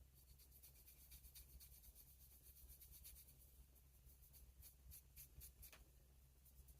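Faint, quick, scratchy rubbing strokes, many in a row, from hand abrasive work on a pocket knife during its restoration, over a low steady hum.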